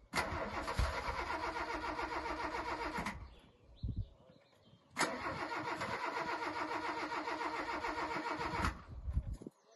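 A Volkswagen Mk1 being cranked on its starter in two long attempts, about three seconds and then nearly four seconds, a few seconds apart. The engine does not catch: it is a hard cold start after months of standing.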